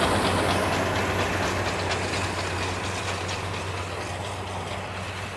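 Tractor pulling a round baler at work: a steady engine drone with a rapid mechanical clatter, growing steadily fainter.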